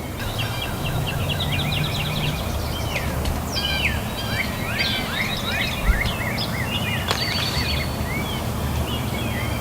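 Several songbirds singing: a quick trill in the first couple of seconds, then a run of short sweeping whistled notes, over a steady low rumble of outdoor ambience.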